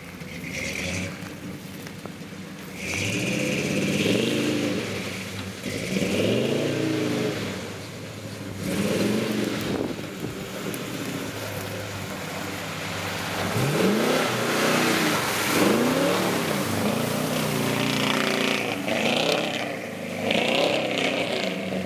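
A 4x4 engine revving hard through mud ruts, its pitch climbing and falling again and again as the driver gets on and off the throttle, with a noisy rush over the top.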